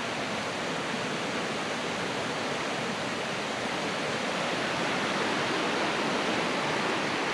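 Creek water rushing steadily over rocks, a constant even roar with no pauses; the stream is running high after heavy rain.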